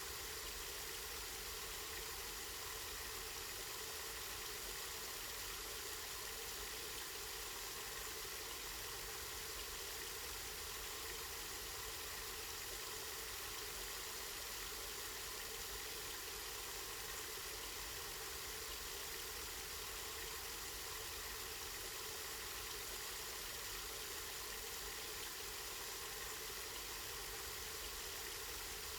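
Water from a small park spring flowing and splashing steadily, over a low rumble.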